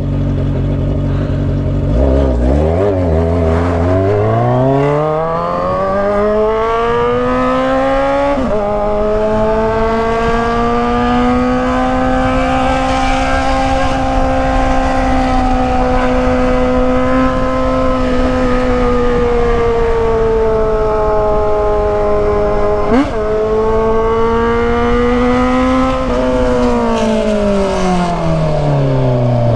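Kawasaki Z900RS inline-four engine through a stainless-steel Atalla header and short straight-through muffler, pulling up through the revs for several seconds, then holding steady. There is a quick shift about eight seconds in and a short blip later on, and the revs fall away near the end as the bike slows.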